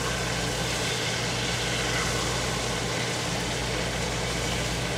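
Chicken strips sizzling steadily as they fry in oil in a stovetop pan, over a steady low motor hum.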